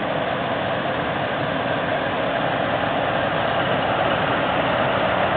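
A 1983 Plymouth Gran Fury police car running, a steady engine and vehicle noise with no change in pitch.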